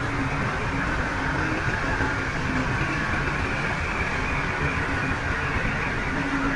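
Heavy diesel earthmoving machinery running steadily, a constant engine noise with faint steady tones on top.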